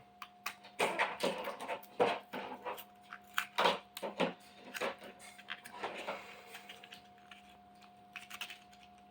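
Irregular clicks, taps and light rustling from the CNC router's small parts and their packaging being handled by hand while the collet is taken out.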